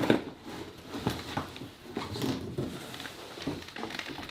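A bicycle being lifted out of its shipping box: irregular knocks and clicks with light rustling of the packing.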